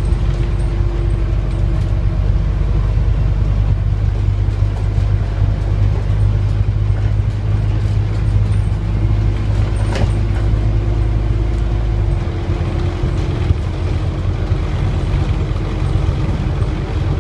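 Scania N230UD Omnicity double-decker bus's diesel engine running steadily under way, its low drone shifting about twelve seconds in, through a six-speed ZF automatic gearbox. A single sharp click about ten seconds in.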